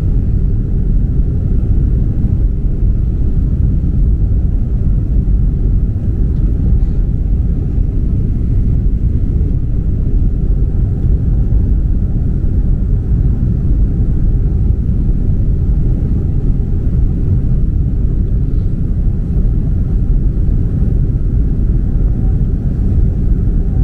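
Steady low rumble of jet engine and airflow noise inside the cabin of a Boeing 767-300 airliner.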